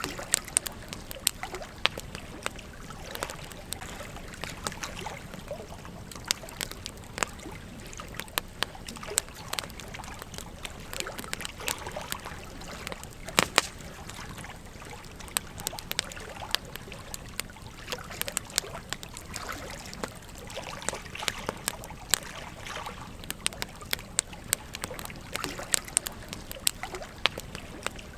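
Wood fire crackling, with frequent irregular sharp pops and one louder snap about halfway through, over the steady rush of a gently flowing stream.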